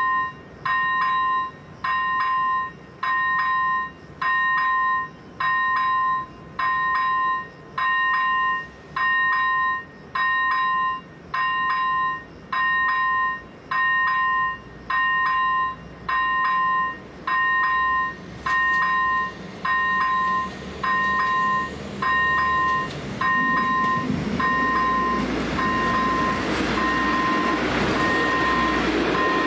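Electronic warning bell of a Czech level crossing with AŽD 97 warning lights, dinging steadily about once a second. About two-thirds of the way through, a train's rumble builds and grows loud as the train reaches the crossing.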